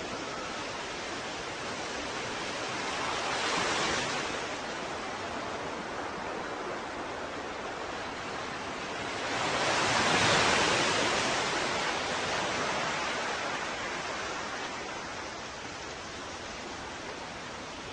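Ocean surf: a steady hiss of waves, with two waves swelling and washing in, the first about three and a half seconds in and a louder one about ten seconds in.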